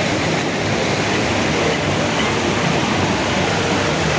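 White-water rapids on the Nile rushing, a loud steady rush of water that does not change.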